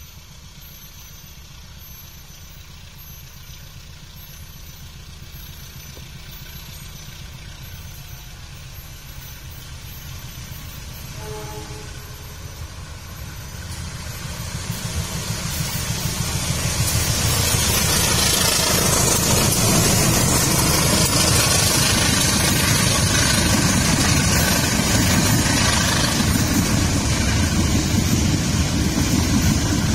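Diesel locomotive hauling a train of empty coal hoppers approaches, its engine drone growing steadily louder. From about seventeen seconds in, the loco and wagons roll past close by with a loud, steady rumble of engine and wheels on the rails.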